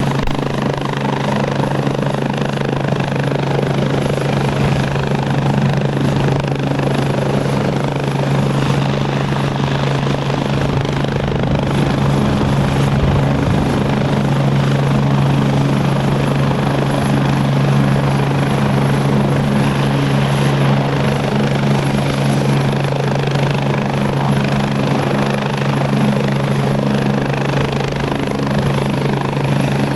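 Agusta A109E twin-turbine helicopter running, with its rotors and engines making a steady drone under a thin, high, steady whine.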